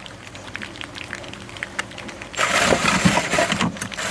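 An electric drill runs in a single burst of harsh noise, starting suddenly about two and a half seconds in and stopping abruptly about two seconds later, while drilling out a motorcycle exhaust's catalytic converter. Before it there are only faint light clicks.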